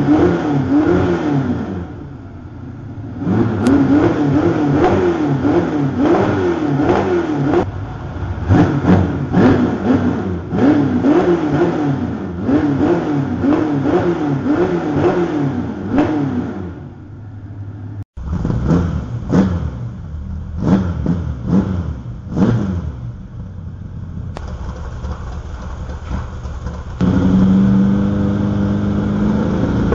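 350 V8 exhaling through 180-degree headers and Dr. Gas FreqMod mufflers, revved in quick repeated throttle blips, about one a second, rising and falling in pitch. About halfway there is a break, then a few separate blips, a settle back to a steady idle, and a step up to a higher steady speed near the end.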